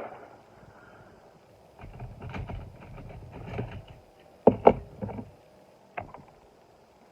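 Handling noise of small model vehicles and their case: light clicking and rattling, then two sharp knocks in quick succession about halfway through and a single click near the end.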